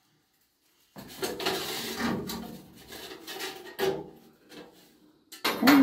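Scraping and sliding handling noise of sheet-metal stovepipe sections being fitted, with a sharp knock about four seconds in and a louder clatter near the end.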